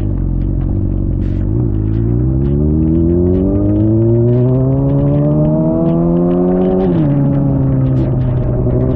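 Suzuki GSX-R600's inline-four engine rising slowly in pitch as the bike accelerates, then dropping sharply with an upshift about seven seconds in and running on at a steady pitch. Scattered light ticks sound over it.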